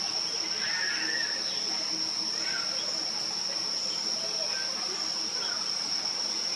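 A continuous high-pitched insect trill holding one steady pitch, with faint scattered bird chirps beneath it.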